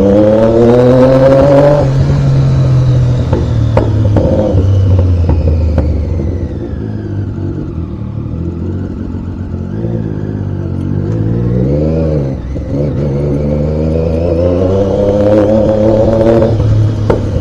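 Triumph Daytona 675 sport bike's three-cylinder engine under way. It revs up, its pitch climbing in the first two seconds, then runs steadily. It gives a quick rise and fall of revs about twelve seconds in, and climbs again near the end.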